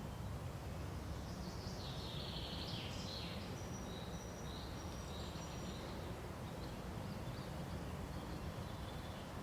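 Forest birds chirping and calling over a steady low rumble of ambient noise, with a flurry of chirps in the first few seconds, then thin high notes and fainter calls.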